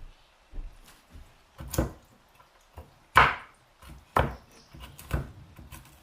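Knife chopping on a wooden cutting board in slow, separate strokes, roughly once a second, with the loudest chop about three seconds in.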